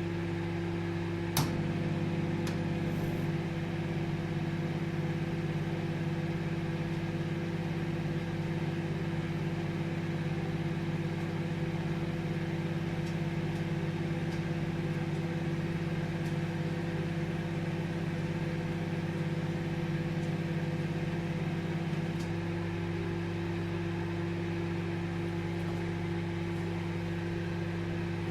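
Microwave oven running with a steady hum. About a second in there is a sharp click and a buzz joins the hum, easing back about two-thirds of the way through.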